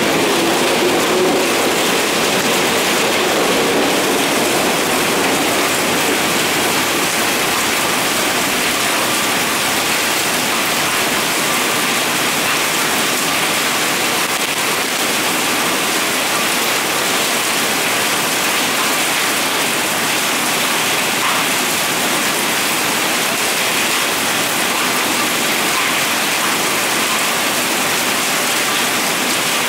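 Steady rain falling on the station roof, platform and track, an even rushing hiss that does not change. The departing electric train's running noise fades out under it in the first few seconds.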